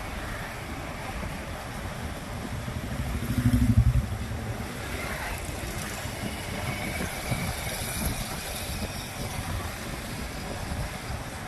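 Road traffic noise heard while riding through city streets. A louder low rumble swells about three seconds in and cuts off about a second later.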